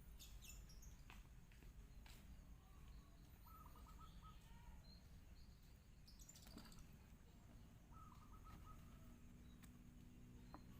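Near silence outdoors, with faint bird chirps here and there, including two short runs of quick repeated notes, over a low steady background hum.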